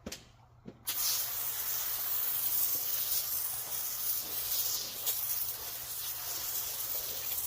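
A sprayer hissing steadily as it puts out liquid, starting about a second in.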